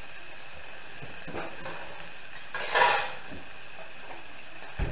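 Venison steaks frying in hot oil in an enameled cast-iron pot, a steady sizzle. About halfway through there is a short, loud clatter of pots and pans, and near the end a dull thump.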